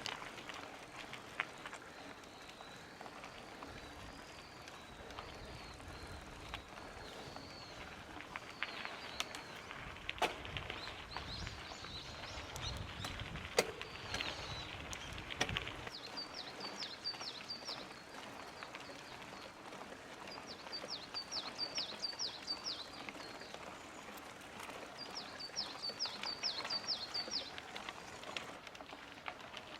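Mountain bike riding along a trail, with scattered clicks and knocks from the bike and tyres and a low wind rumble that stops about halfway through. In the second half a bird sings three quick runs of repeated high chirps.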